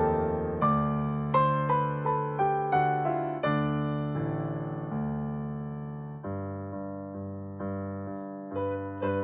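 Piano playing a slow, gentle passage of struck notes and chords, each one fading after it is played. The notes come every half second or so at first, then give way to longer held chords in the second half.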